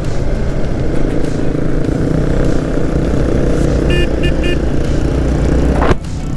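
Motorcycle riding along, with steady engine and wind noise. Three short horn beeps come about four seconds in.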